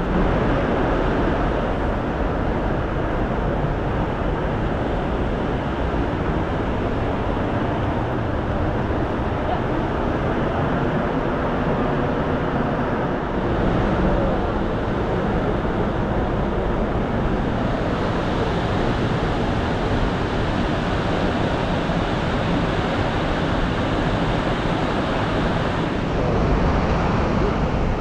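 Steady rushing of river water around a raft, with wind buffeting the microphone.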